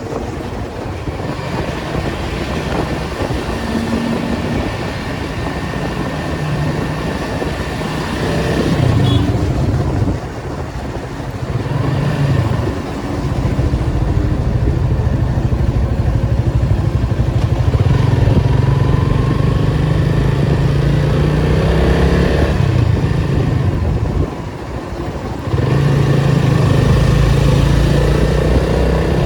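Datsun 280Z straight-six engine running through stop-and-go traffic, its pitch rising as it pulls and dropping back, with brief dips in level about ten, thirteen and twenty-five seconds in.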